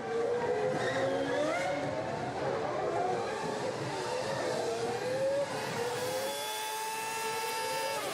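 Several IndyCar racing engines at high revs, their pitches rising and falling as they change gear and pass one another. Near the end one engine holds a steady high note, then the sound cuts off suddenly.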